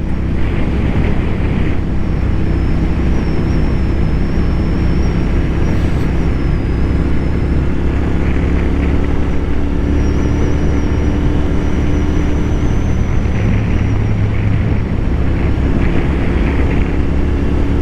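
Motorcycle cruising at a steady speed: the Royal Enfield Continental GT 650's parallel-twin engine running under a steady rush of wind. A thin, high helmet whistle comes and goes twice, which the rider puts down to his gold visor's clamp no longer sealing well.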